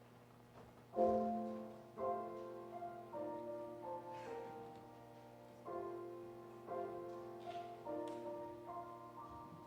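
Piano playing slow offertory chords, starting about a second in, each chord struck and then fading.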